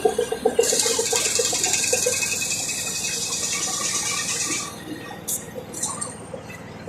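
Compressed air hissing steadily for about four seconds, then cutting off suddenly, as in inflating or bleeding a tyre; light irregular ticking runs beneath it, and a few sharp clicks follow.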